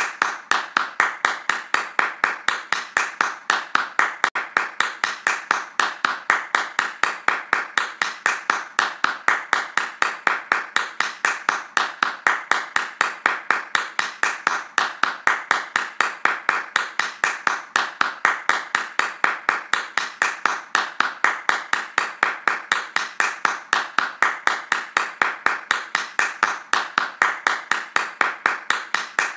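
Hands clapping fast in a steady, even rhythm, claps evenly spaced with no break.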